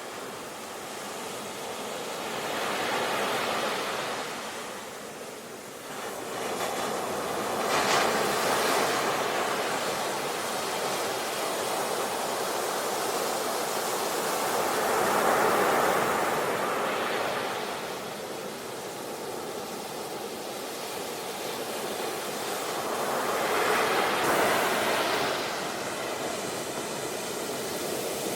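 Sea waves breaking and washing up the shore, a steady rush that swells and recedes in about four slow surges.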